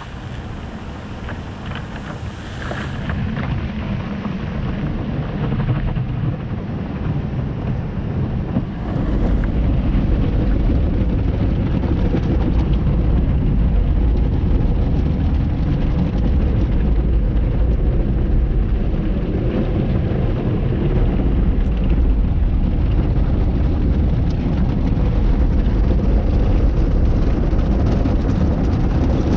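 Automatic car wash tunnel equipment working on a car: a continuous noise of spraying water and running machinery. It builds gradually and then steps up about nine seconds in to a steady, heavy low rumble.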